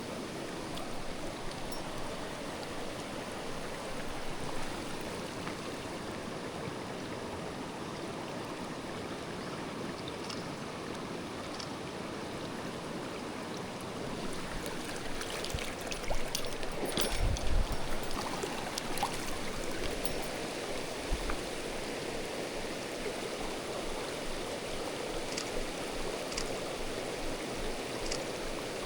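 Mountain stream water rushing steadily over rocks. A few short knocks and clicks come through about halfway in.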